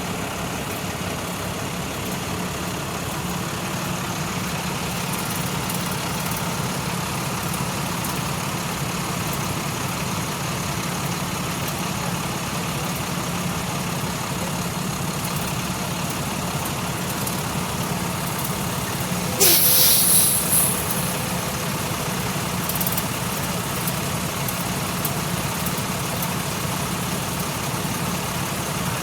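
Diesel truck engine idling steadily. About two-thirds of the way through, a short, loud hiss breaks in for a second or so, then dies away.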